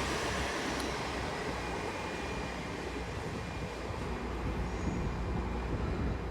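Hitachi Class 802 IET bi-mode train moving through the station: a steady noise that slowly eases, with a faint thin high tone from about one and a half seconds in.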